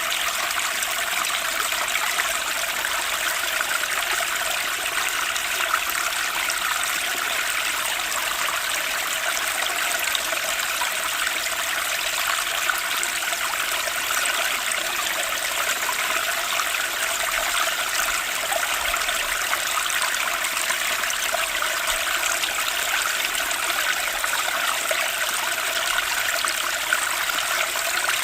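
Flowing water of a stream, a steady even rushing trickle with no breaks.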